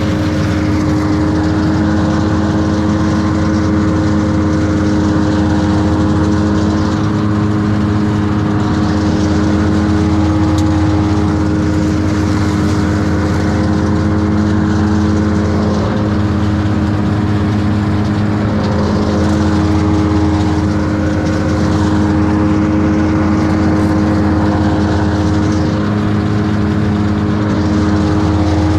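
A large engine running steadily at constant speed, with a low hum that holds one pitch throughout.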